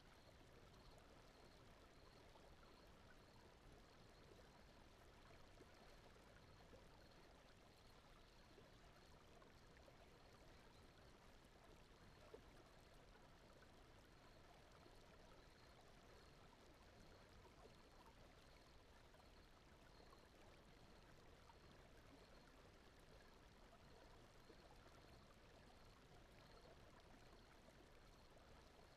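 Faint, steady flowing-water ambience like a gently running stream, blended with brown noise, with one small click about twelve seconds in.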